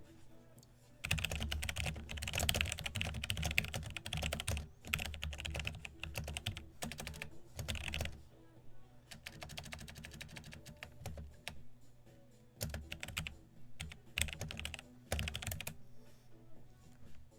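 Typing on a computer keyboard: a long run of rapid key clicks, then several shorter bursts with pauses between them.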